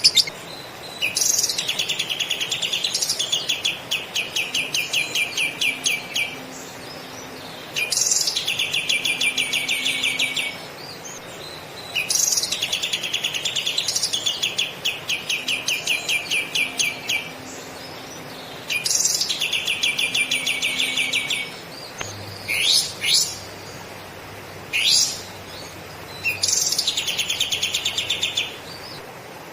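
Kapas tembak songbird singing five long bursts of rapid, chattering trills, lovebird-style material, each lasting two to three seconds with pauses between, and a few short single calls near the end.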